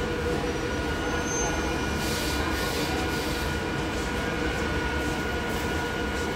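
Mumbai suburban local electric train running, a steady rumble with a steady whine over it.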